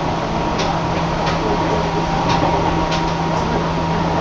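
Commuter electric train running between stations, heard from inside the carriage: a steady rumble with a constant low hum, and faint light ticks every half second or so.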